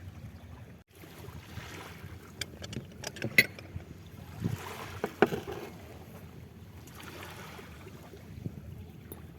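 Outdoor ambience of rumbling wind noise on the microphone, with scattered sharp clicks and knocks. The sound cuts out briefly about a second in.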